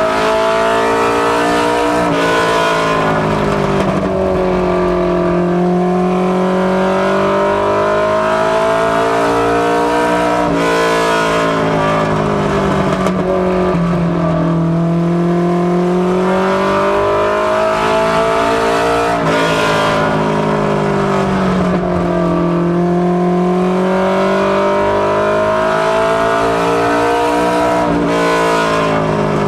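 Ministock Mustang race car engine lapping a short oval. The engine pitch drops off sharply about every eight or nine seconds, sags through the turn, then climbs again down the straight, repeating for about three laps.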